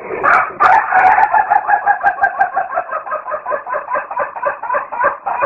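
Chicken clucking in a rapid, steady run of short notes, about seven a second, that cuts off suddenly.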